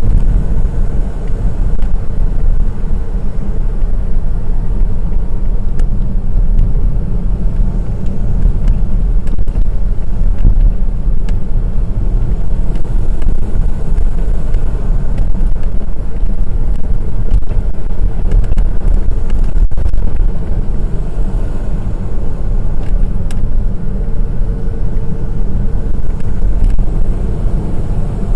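Honda S660, a kei sports car with a turbocharged three-cylinder engine and manual gearbox, driving along a mountain pass road. Its engine and tyre noise make a steady low rumble.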